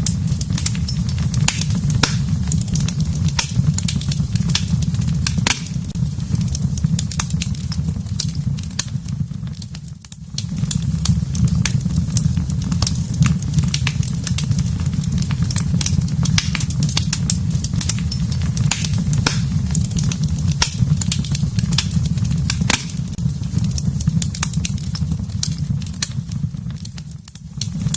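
Fire in a fireplace crackling, with frequent sharp pops over a steady low rumble. The sound dips briefly twice, about ten seconds in and near the end.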